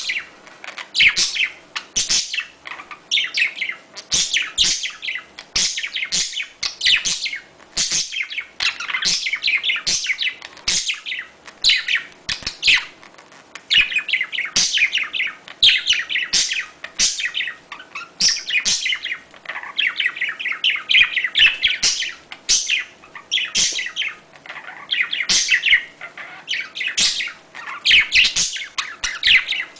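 A flock of budgerigars chattering: dense, continual chirps and warbles with no break. This is budgie mating-call chatter.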